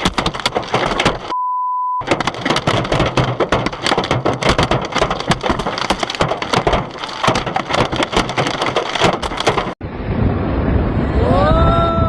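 Storm clatter: a dense, rapid patter of hard impacts, as of hail or driving rain striking hard surfaces, broken a little over a second in by a short steady censor beep. Near the end it gives way to a duller rushing wind noise with a short rising-then-falling wail.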